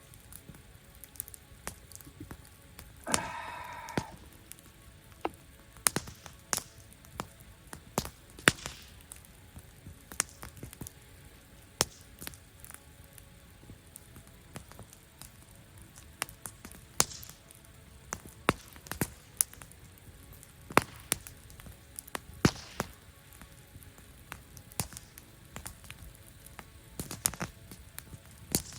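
Wood campfire crackling, with sharp, irregular pops and snaps. About three seconds in, a short whistling tone lasts about a second.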